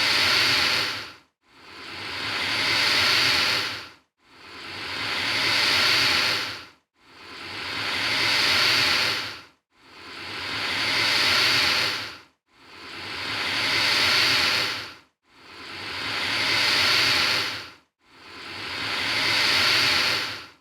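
Alligator hissing: a long hiss that swells and then fades, repeated evenly about every three seconds with a brief silence between each, eight times over.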